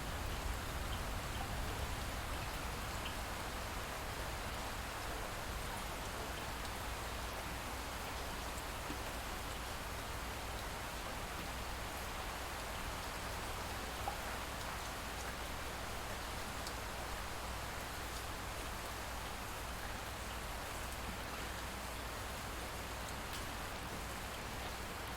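Light steady rain, a soft even hiss with scattered faint drop ticks.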